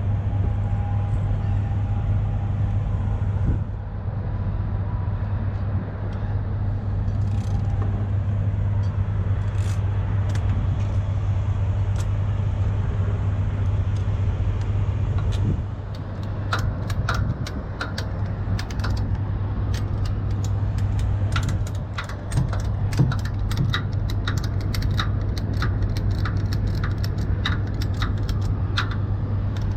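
Heavy truck diesel engine idling steadily. From about halfway on, a ratchet is being worked in a regular run of metallic clicks, one to two a second, as a tow strap or chain binder is tightened.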